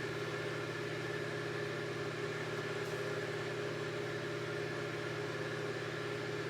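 Steady machine hum in a small room, several constant tones over a faint hiss, with no change in level.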